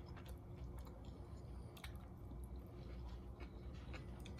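A person chewing a mouthful of saucy orange chicken, with soft wet mouth sounds and scattered small clicks.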